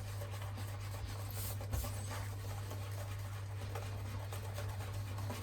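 Shaving brush working Palmolive shaving cream into a lather, a faint scratchy brushing, over a steady low hum.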